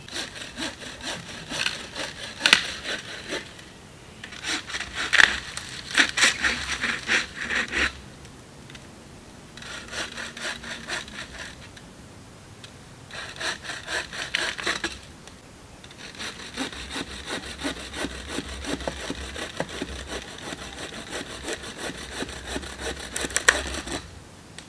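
Hand saw cutting through wood in rapid rasping strokes, in five bouts with short pauses between them, the last and longest running about eight seconds.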